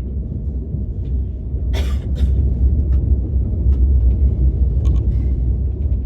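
Steady low rumble of a KTX high-speed train cabin while the train is running, with a couple of short sharp clicks about two seconds in.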